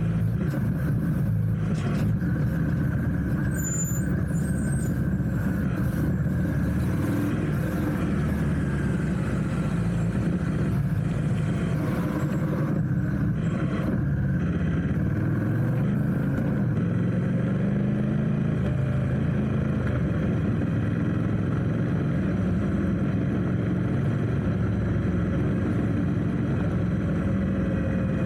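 Steady road-traffic noise: vehicle engines running in slow city traffic. About two-thirds of the way through, one engine rises in pitch as it speeds up.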